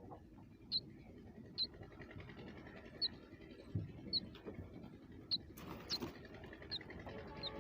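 Bird chirping: short, high single chirps repeated about once a second.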